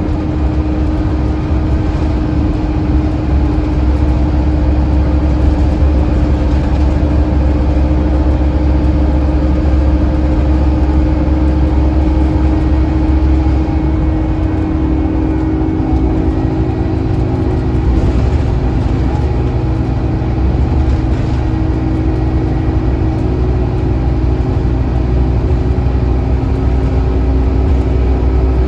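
Scania N230UD OmniCity double-decker bus running on route, its nine-litre five-cylinder diesel engine making a steady, continuous rumble. The engine note shifts about halfway through.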